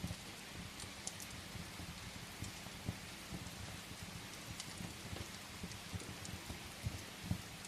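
Steady rain, an even hiss, mixed with a wood fire crackling in a fireplace: scattered sharp pops and clicks over the hiss, with frequent soft low thuds.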